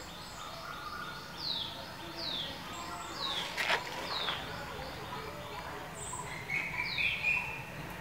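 Wild birds calling: short, high whistles that slide downward, repeated every second or so, with a warbled phrase about three-quarters of the way through. A single sharp click sounds a little before the middle.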